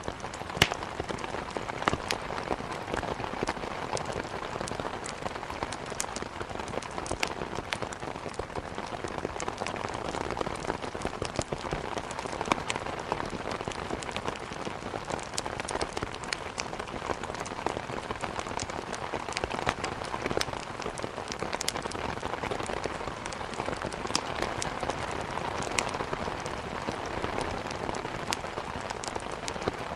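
Steady heavy rain against a window mixed with a wood fire crackling in a fireplace: an even rushing hiss with frequent sharp, irregular pops.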